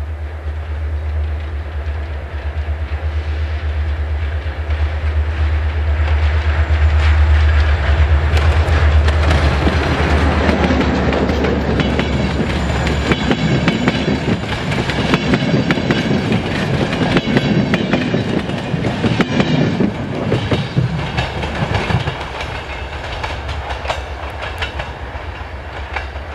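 Diesel-hauled passenger train passing close by. A deep engine rumble builds over the first several seconds, then the coaches go by with a rhythmic clickety-clack of wheels over rail joints, which eases off a few seconds before the end.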